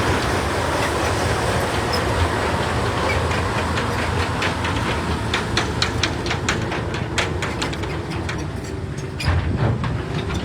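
A heavy vehicle's low, steady rumble, with a run of sharp clicks and clatters through the second half.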